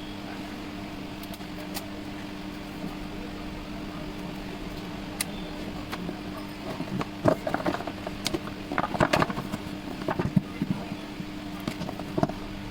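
A steady low hum, with a scatter of light clicks and taps starting about halfway through.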